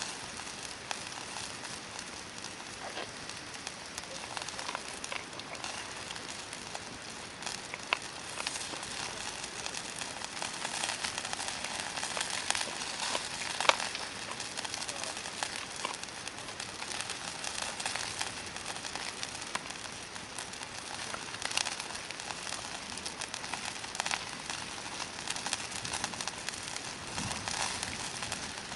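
Hardwood campfire burning, a steady dense crackle with scattered sharp pops, the loudest about halfway through.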